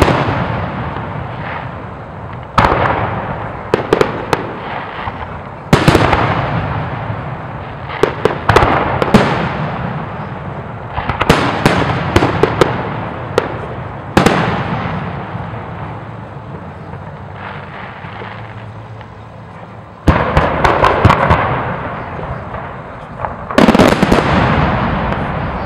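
Aerial firework shells bursting in a series of loud booms, each trailing off in a long rumbling echo, with clusters of quick crackling reports. The bursts bunch together in the middle, ease off for a few seconds, then two more heavy bursts come near the end.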